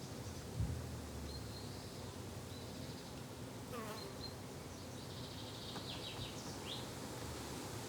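Garden ambience of insects buzzing steadily, bee- and fly-like, with a few short, high bird chirps scattered through, and one falling call about four seconds in.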